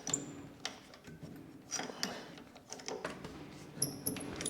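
Irregular light clicks and ticks from a mini metal lathe's mechanism being worked by hand during its first oiling, over a faint steady hum.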